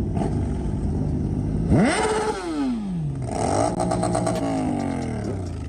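An engine idling, then revved twice: a quick rise about two seconds in that falls straight back, and a second rev that holds briefly before dropping back to idle.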